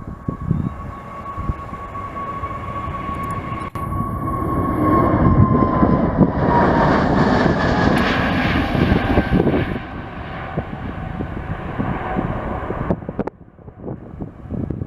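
Jet airliner passing close by: the engine whine holds steady, then drops in pitch as the aircraft goes past, and the engine rush swells and then fades. The sound cuts off abruptly near the end.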